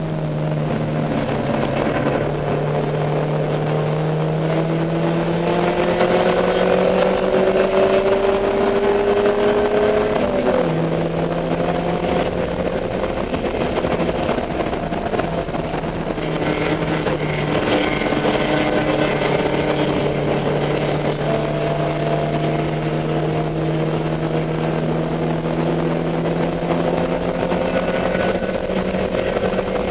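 Dodge Neon race car's four-cylinder engine pulling hard, its pitch climbing steadily for about ten seconds, then dropping sharply at an upshift and climbing again more slowly.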